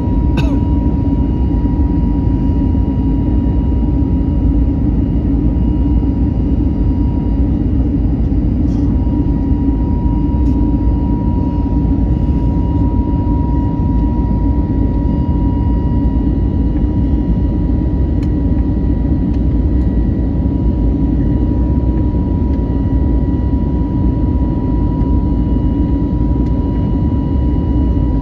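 Cabin noise of an Airbus A321neoLR airliner: the jet engines and airflow make a steady, even rumble with a thin constant whine on top.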